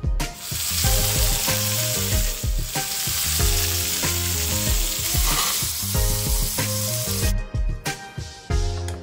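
Ribeye steak frying with a loud, dense sizzle that starts suddenly just after the beginning and cuts off about seven seconds in, over background music with a steady beat.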